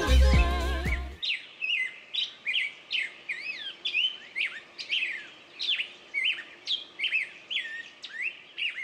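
Music cuts off about a second in, then birds chirping: quick, high chirps about twice a second, each sliding up and down in pitch.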